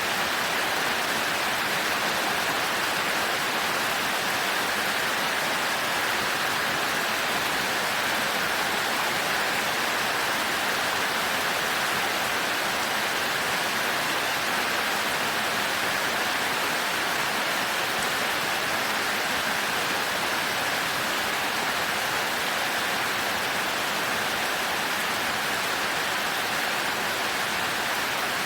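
Heavy rain falling steadily on a thatched roof: an even, unbroken hiss with no thunder.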